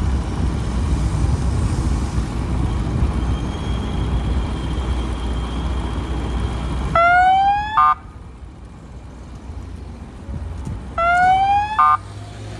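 Motorbike engine and road rumble, then two short electronic siren blasts about four seconds apart. Each is a rising wail that breaks into a quick warble and is the loudest sound here. The rumble drops away after the first blast.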